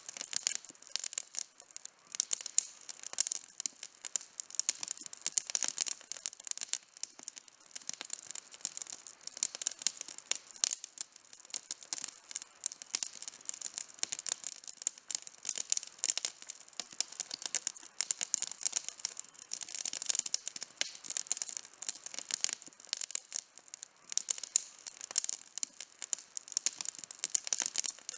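Wood campfire burning with dense, continuous crackling and popping.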